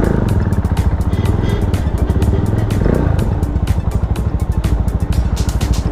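Bristol 400i Omega's 397cc single-cylinder four-stroke engine running under way, its low pulsing steady throughout, with wind buffeting the microphone.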